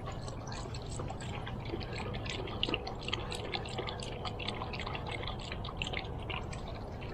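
A dog lapping and splashing in water: a dense, irregular run of small splashes and drips.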